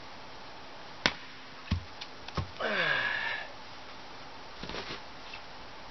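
Firewood being split with a splitting maul: three sharp wooden knocks, then a short creak falling in pitch.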